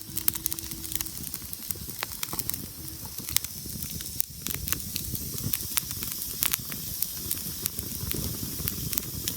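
Wood fire burning, with a steady hiss and frequent irregular sharp crackles and pops from the burning wood.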